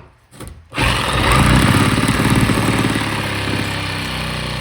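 Power drill driving a hole saw, cutting into the boat's fibreglass hull for the bow thruster tube; it starts about a second in and runs loud and steady with a fast chattering rhythm.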